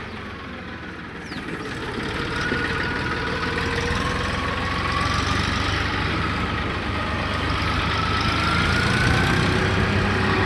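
Deutz-Fahr tractor's diesel engine running, growing louder from about a second in and climbing slowly in pitch as it picks up speed.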